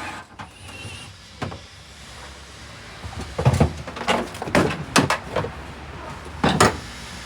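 A series of sharp knocks and clunks, several in quick succession from about three seconds in and a last pair near the end, over a low steady hum.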